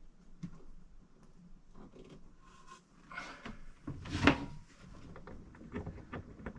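Handling noise of hands working on a fitting in a cramped space: small clicks and knocks, with one louder scrape about four seconds in.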